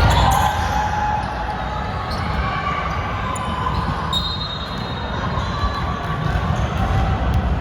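Basketball game play in a gymnasium: a ball bouncing on the hardwood court and scattered knocks over the hall's steady low rumble, with a faint thin high tone about halfway through.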